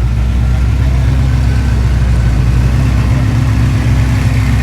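A car engine idling steadily and loudly, a low even rumble with no revving.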